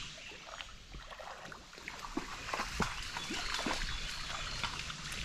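Creek water sloshing, with small scattered splashes, around someone wading waist-deep.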